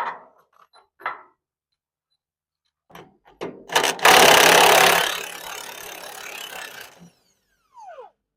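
Wrench work on the bolts holding a spreader bed to a truck frame: a few knocks and clicks, then a loud run of about a second from a power wrench that tapers off over the next two seconds. A short falling squeak comes near the end.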